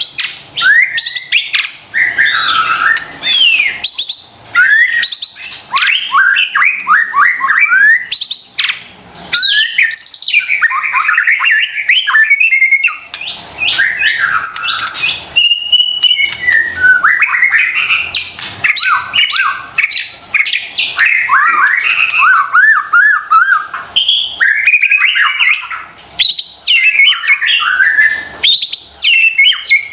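White-rumped shama (murai batu) singing loudly in fast, varied phrases of rising and falling whistles, rapid trills and scratchy notes, with brief pauses between bursts.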